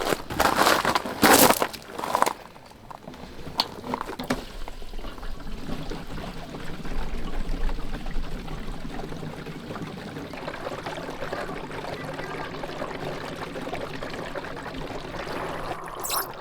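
A few knocks of something being handled, then a liquid pouring steadily for about ten seconds.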